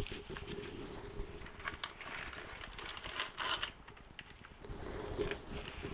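Ratchet torque wrench clicking in short irregular runs as it tightens bolts on a motorcycle engine, over a faint steady hum.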